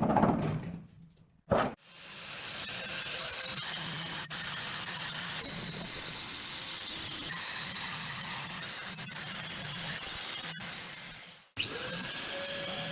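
Short hiss at the start, then a small electric power tool runs steadily for about ten seconds with a thin high motor whine. It stops abruptly near the end and starts again straight away.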